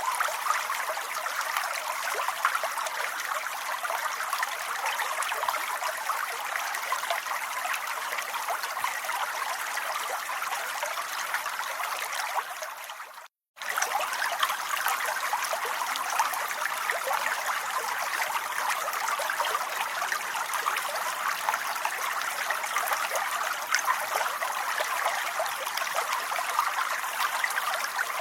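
Steady rain falling, a dense patter of drops. About halfway through it fades, cuts out to silence for a moment, and comes straight back.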